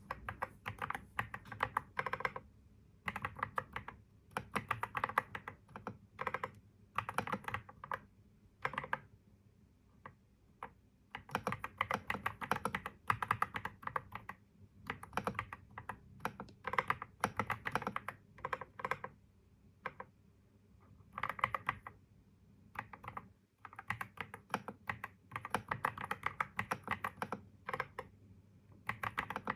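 Typing on a computer keyboard: rapid runs of key clicks in bursts of a second or two, with short pauses between them.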